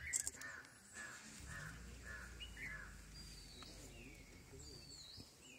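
Wild birds calling: a run of about five short calls, roughly two a second, followed by higher whistled notes that glide in pitch. A low steady hum sits beneath from about a second and a half in.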